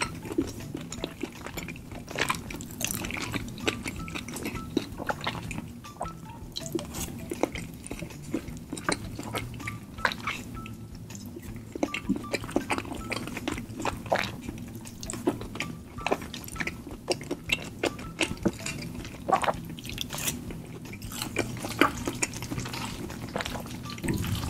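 Close-miked chewing of spicy tteokbokki rice cakes and ramen noodles: irregular wet mouth clicks and smacks.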